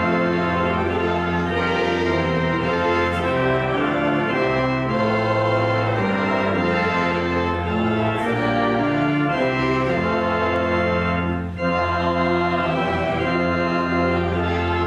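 Pipe organ playing sustained full chords over a steady pedal bass, the chords changing every second or so, with a brief break between chords about eleven and a half seconds in.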